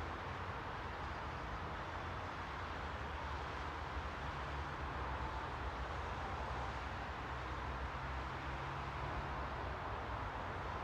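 Steady, even background hiss with a low rumble underneath and no distinct events.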